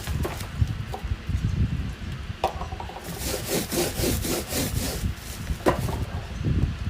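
Irregular rubbing and scraping strokes as a parcel is wiped down and handled by hand, with a low rumble of handling noise throughout.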